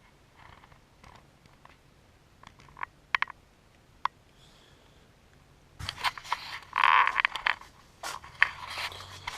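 A few faint clicks and taps, then from about six seconds in a loud burst of close rustling and scraping.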